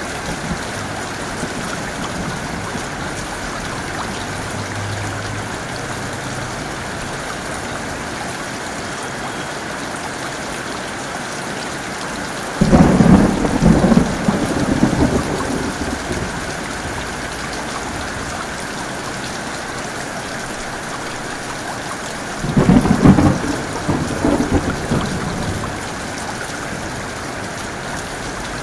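Steady heavy rain with two thunderclaps: a sudden crash a little before halfway that rumbles on for about three seconds, and a second one about three-quarters of the way through.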